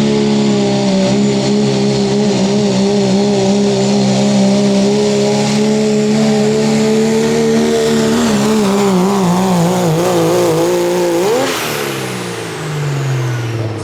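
2.6-class diesel pulling truck's engine running hard under load. It holds a steady pitch for about eight seconds, then wavers, jumps up sharply about eleven seconds in and falls away as the engine winds down.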